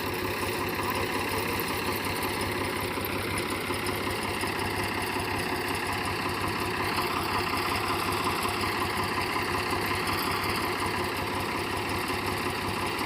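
Swaraj 834 XM tractor's three-cylinder diesel engine running steadily, with an even level throughout.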